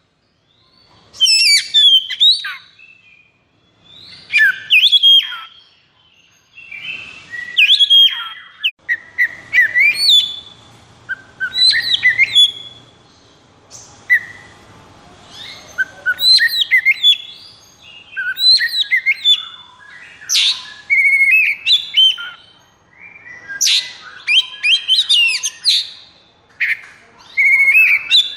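Oriental magpie-robin (kacer) singing in the aggressive 'konslet' style: loud, varied whistled phrases of quick rising and falling notes. The phrases come in short bursts about every two seconds at first, then follow each other almost without pause from about a third of the way in.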